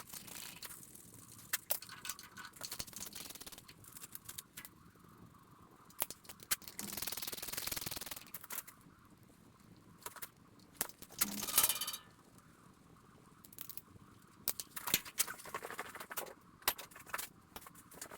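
Wrench work on the tractor's bell housing bolts: scattered metal clicks, clinks and scrapes, with a few longer rasping stretches as the bolts are turned out.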